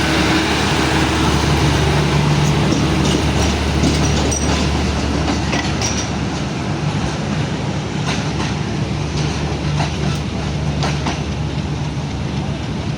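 Subuk Kharam diesel railcar moving off, its engine running with a steady drone, and wheels clicking over rail joints from a few seconds in.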